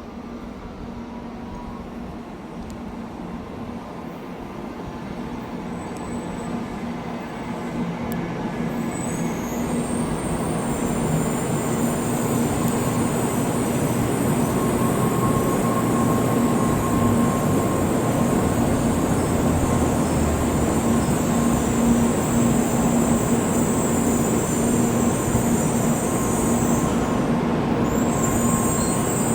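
Shinkansen train running into the station, its noise growing steadily louder over the first dozen seconds and then holding loud, with a steady low hum and a high hiss that joins about nine seconds in.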